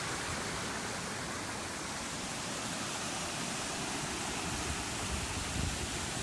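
Waterfall rushing with a steady, even noise, with a few low wind thumps on the microphone near the end.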